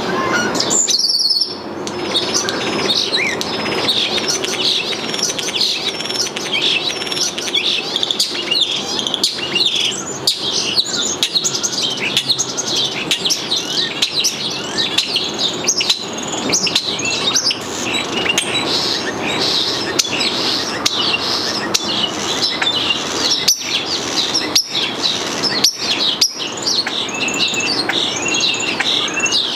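Birds chirping: a dense, continuous run of short, high chirps and calls, with a brief lull about a second in.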